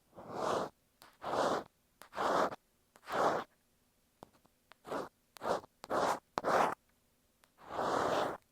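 Ear pick scratching against an earphone microphone, in separate scratchy strokes. There are four strokes about a second apart, a pause, then a quicker run of short strokes and one longer stroke near the end.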